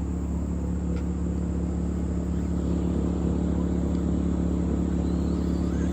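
A steady low mechanical hum, like a motor running at a constant speed, with no change in pitch.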